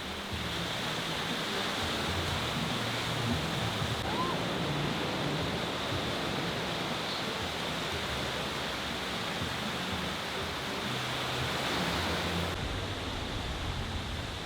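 Steady rushing noise of sea water and wind outdoors, with a lower rumble coming in near the end.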